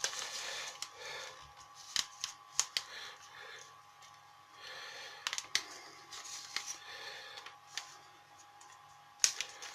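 A sheet of origami paper being folded by hand and its creases pressed down: soft rustling with scattered crisp crackles and taps.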